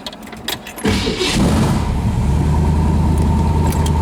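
Keys clicking at the ignition, then about a second in the 1968 Camaro's 400-cubic-inch V8 catches almost at once and settles into a steady idle through its headers and dual exhaust.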